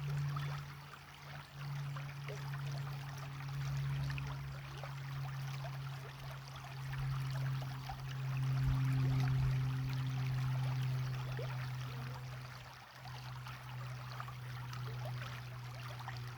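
A small stream trickling over its bed, with a steady low hum underneath.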